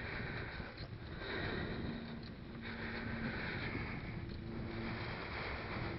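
Mountain bike riding along a dirt trail: steady tyre rolling and drivetrain noise mixed with wind on the microphone, swelling and easing a little.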